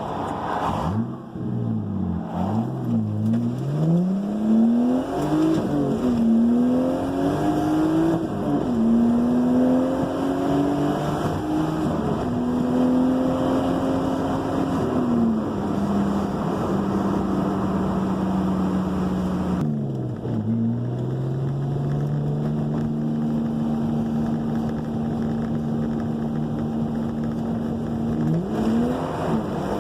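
Turbocharged RB25DET straight-six in a Datsun 280ZX, heard through its new exhaust, accelerating through the gears: the engine note climbs and drops at each shift, then holds a steady pitch while cruising, with a brief lift-off about 20 seconds in and a pull again near the end.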